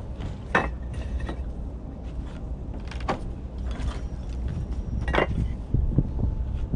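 Bricks being set down dry on a brick course: four sharp clacks of brick on brick, spread over a few seconds, over a steady low rumble.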